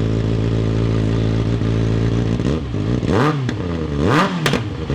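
2024 Kawasaki ZX-6R's 636 cc inline-four idling steadily with its stock muffler removed, then blipped twice, the revs rising and falling quickly, with a few sharp pops as the revs drop on the second blip.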